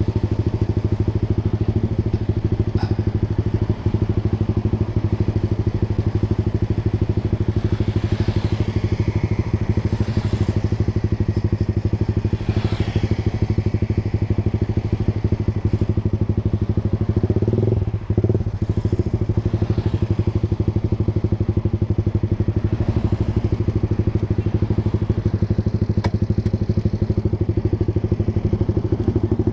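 Honda Sonic 150R's 150 cc single-cylinder engine idling steadily through a short Proliner TR1 aftermarket exhaust, with other traffic passing faintly about a third of the way in and a brief unevenness a little past halfway.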